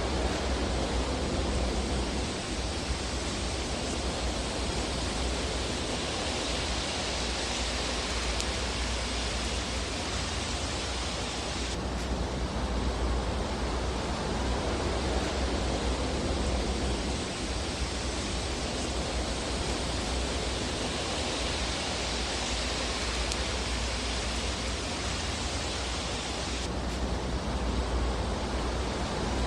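Fireplace fire ambience: a steady rushing hiss over a deep low rumble that swells and fades slowly, with little distinct crackling. The texture changes abruptly about twelve seconds in and again near the end.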